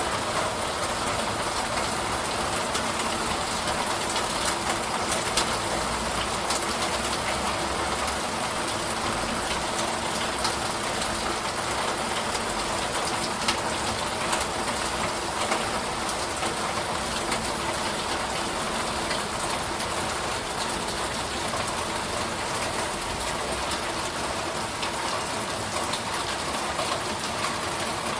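Steady rain falling, an even wash of noise with scattered individual drop ticks.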